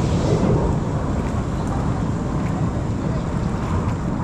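Low, steady rumble of a Blue Angels F/A-18 Super Hornet jet.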